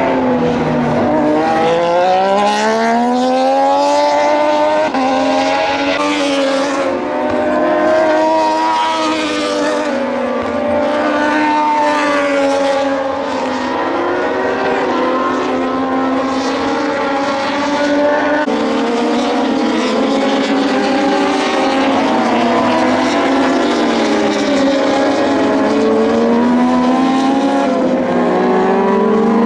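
Several Moto2 race bikes with Triumph 765 cc three-cylinder engines going past at racing speed. Their engine notes overlap and rise and fall in pitch as they rev and change gear, with no let-up.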